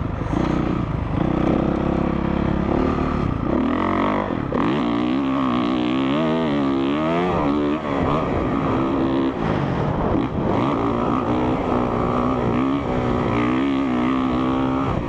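Honda CRF450R dirt bike's single-cylinder four-stroke engine being ridden hard, its pitch rising and falling again and again with throttle and gear changes.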